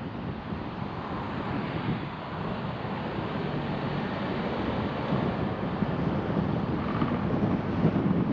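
Car being driven, with a steady wash of road and engine noise.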